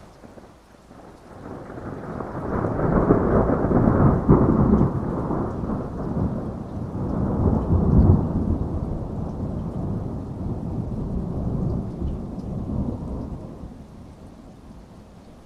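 A long roll of thunder during a heavy rainstorm. It builds from about a second in, peaks twice, and dies away over roughly a dozen seconds, with steady rain hissing beneath it.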